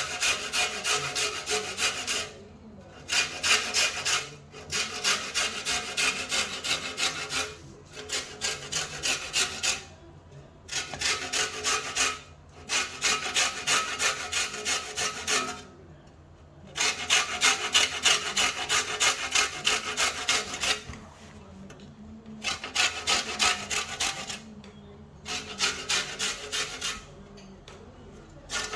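Lemon being zested on a grater: quick rasping strokes, about four or five a second, in runs of a few seconds with short pauses between them.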